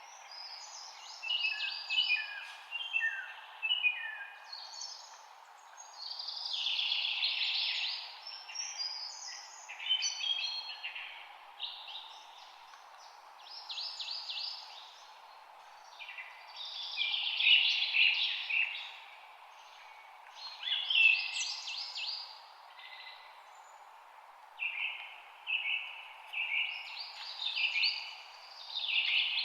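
Songbirds chirping and trilling in quick bursts every few seconds, over a steady faint hiss.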